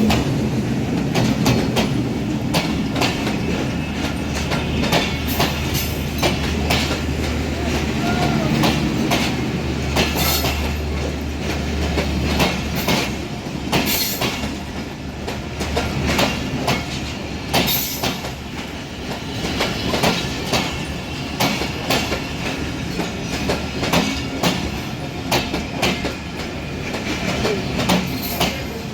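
Rupsha Express intercity passenger train's carriages rolling past, wheels clacking over the rail joints in a long, irregular run of sharp clicks. A low steady drone underlies the first twelve seconds or so, then drops away.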